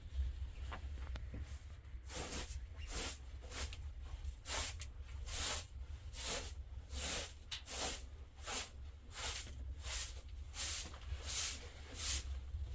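Rhythmic swishing or scraping strokes, about two a second, starting a couple of seconds in and stopping just before the end, over a steady low hum.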